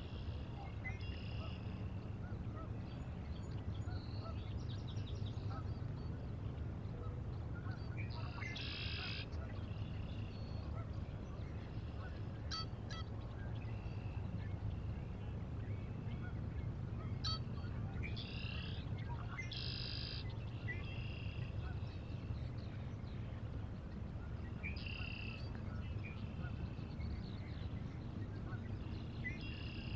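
Birds calling at a river: short calls repeated every few seconds, over a steady low rumble of outdoor ambience.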